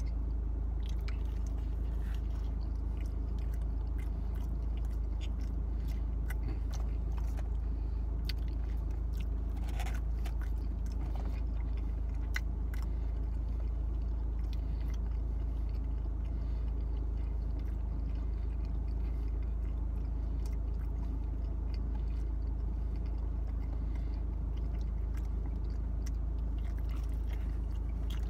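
Close chewing and biting of pizza, with many short wet mouth clicks scattered throughout, over a steady low rumble inside a car cabin.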